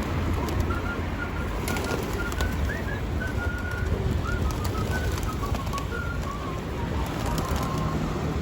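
A flock of feeding pigeons: short repeated bird chirps and scattered sharp wing flaps and clicks over a steady low rumble.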